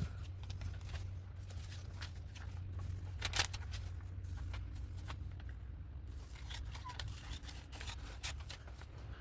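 Paper being handled for a collage: scattered short, crisp paper rustles and clicks, the loudest about three and a half seconds in and a quick cluster near the end, over a steady low hum.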